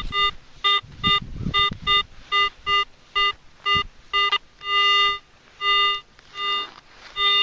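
Garrett AT-series metal detector giving a run of short, buzzy beeps of one pitch as the coil is swept back and forth over a buried target. Two longer held tones come a little past the middle. The signal is repeatable but jumpy, with a little iron audio mixed in.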